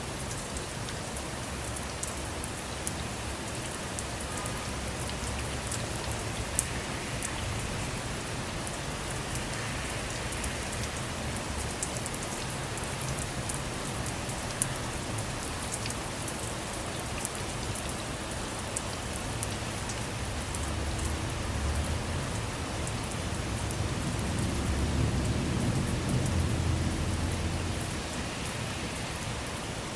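Steady rain falling on a car, with scattered sharp drop ticks. A low rumble of distant thunder swells and fades about three quarters of the way through.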